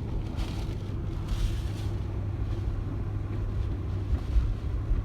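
Inside a moving car: steady road and engine hum with storm wind rushing against the car, and two brief hissing surges in the first two seconds.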